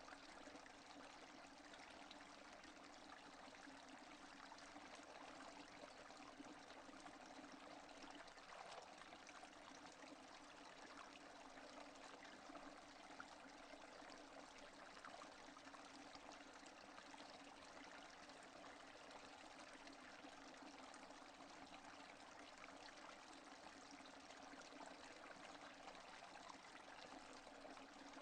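Steady rain without thunder, a faint, even patter and hiss of falling drops.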